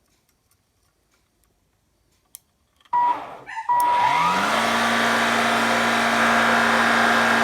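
Cordless vacuum cleaner motor starting up about three seconds in, spinning up with a rising pitch and then running steadily with a whine. It runs on a temporary micro switch wired in place of the broken on/off switch, the switch being the fault.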